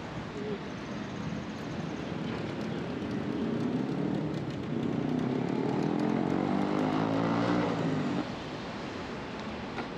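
A motor vehicle passing close by on the road, its engine note building and rising slightly, then breaking off abruptly about eight seconds in, over steady wind and road noise.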